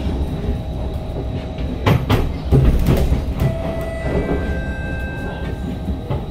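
SMRT C151 train running on elevated track, heard from inside the car: a steady low rumble of wheels on rail, with a cluster of knocks over rail joints or points about two to three seconds in. In the second half a faint steady whine comes in as the train slows into the station.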